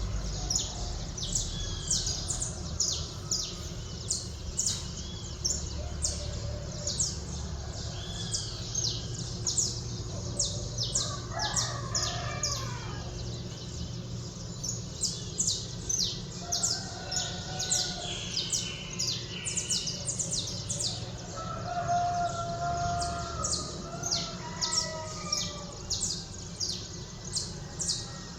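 Dawn chorus of birds: a dense run of quick, high chirps goes on throughout, with longer, lower calls now and then, over a steady low rumble.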